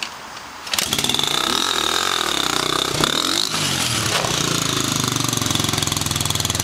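Dirt bike engine catching and starting about a second in, then running, its revs rising and falling for a few seconds before holding steady.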